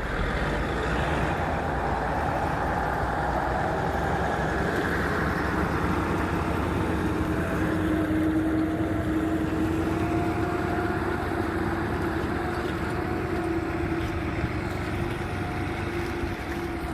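Heavy vehicle engine running steadily under load, with a steady whine that comes in about halfway through and holds.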